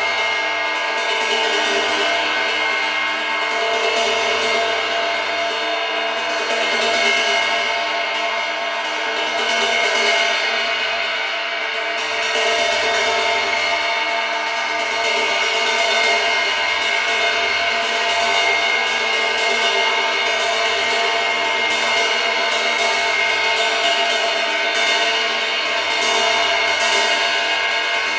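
Steady pink noise: an even, unbroken hiss across the mid and high range, with little bass, holding the same level throughout.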